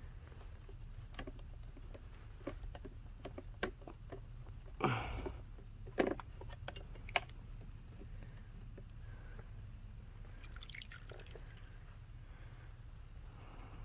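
Faint drips, small splashes and light knocks of water and metal in a rust-removal tank as the soaking knife is handled, with a louder slosh about five seconds in and two sharp ticks soon after.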